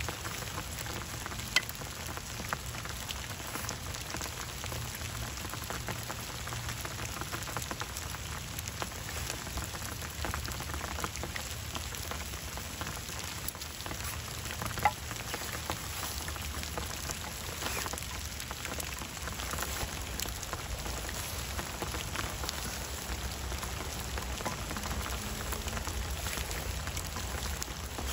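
Steady rain pattering, with many small drops ticking and two sharper clicks, one shortly after the start and one about halfway through.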